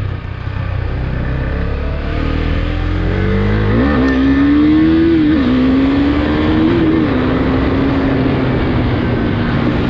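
Husqvarna Svartpilen 401's single-cylinder engine under hard acceleration: the revs climb steeply, drop briefly at two upshifts, then hold steady at speed.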